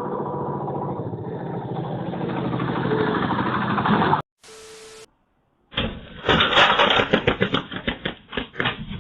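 A vehicle engine running steadily and growing a little louder, then cut off suddenly about four seconds in. After a short gap comes a rapid, uneven run of knocks and rattles.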